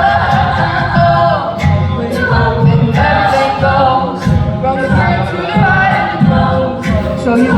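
A cappella group singing in close harmony over a pulsing low sung bass line, with sharp clicks keeping a steady beat.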